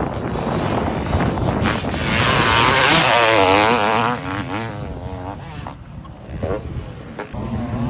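Honda CR500 single-cylinder two-stroke motocross engine being ridden hard, its note rising and falling with the throttle. It is loudest about two to four seconds in, eases off around six seconds, then picks up again near the end.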